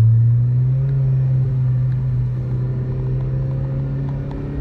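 Honda Civic Si's 2.4-litre four-cylinder with axle-back exhaust and resonator delete, heard from inside the cabin running at low revs with a steady drone. The pitch steps up slightly about half a second in, then holds level.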